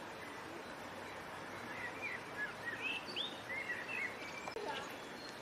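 Birds chirping: a run of short, quickly rising and falling calls through the middle, over a steady background hiss.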